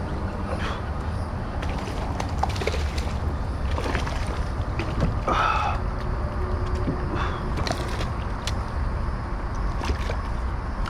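Water sloshing and lapping around a kayak, with scattered small knocks and clicks over a steady low rumble.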